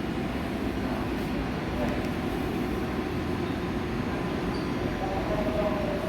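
Seoul Subway Line 4 electric train running at the station: a steady rumble, with a faint wavering tone coming in near the end.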